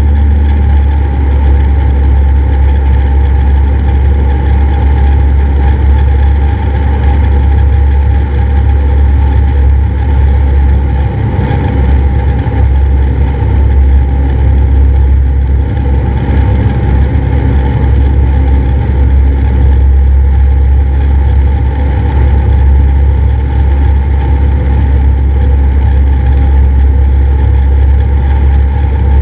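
Cessna 172's piston engine and propeller droning steadily at a constant power setting.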